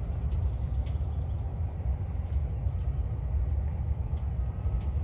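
A steady low rumble with no sudden blast or impact, and faint scattered ticks above it.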